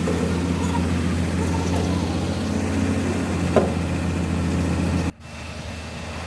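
An engine idling steadily with an even low hum. There is a single sharp click about three and a half seconds in, and the sound drops abruptly about five seconds in.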